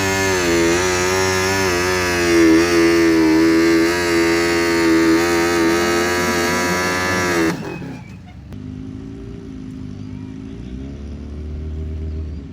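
Modified pulling garden tractor's engine running hard at high revs, its pitch wavering slightly. About seven and a half seconds in it drops off suddenly to a much quieter, lower running, which revs up briefly near the end.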